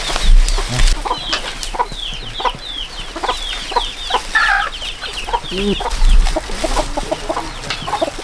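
Chickens clucking, with many short, high, falling chirps running through and a few lower clucks in the middle. A couple of dull low bumps stand out as the loudest moments.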